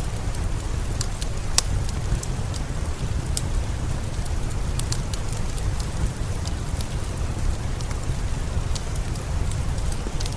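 Steady rain with a wood fire crackling over it, giving scattered sharp pops at uneven intervals.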